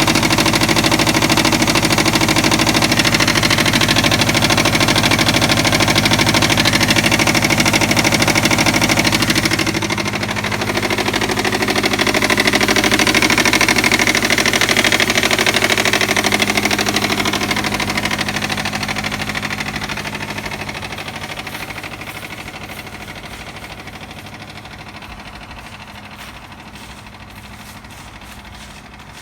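Subaru EJ257 turbocharged flat-four idling on a cold start with a loud, rapid clacking from the front of the engine: the timing belt slapping because of a defective hydraulic timing belt tensioner. The sound grows steadily fainter over the last ten seconds or so.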